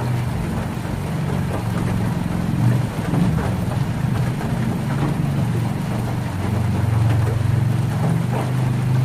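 Heavy rain drumming on a tin roof, heard as a steady low rumble with scattered sharper drop taps.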